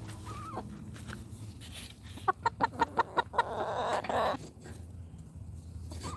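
Chickens clucking: a quick run of short, sharp clucks about two seconds in, followed by a rougher, raspier call lasting about a second.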